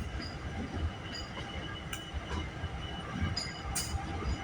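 Diesel switcher locomotives moving slowly in a rail yard: a low, uneven engine rumble with a few short high clicks from the wheels and rails.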